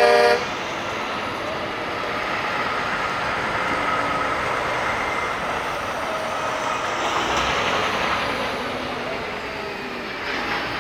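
Heavy trucks driving past at low speed, their engines and tyres making a steady rumble that swells about two thirds of the way in. A truck horn blast cuts off just as it starts.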